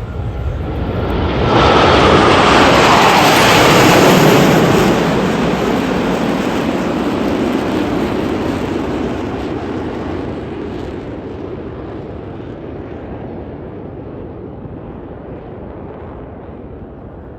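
F/A-18 Super Hornet jet flying past: the jet noise builds, is loudest about two to five seconds in with a falling whine, then fades slowly as it moves away.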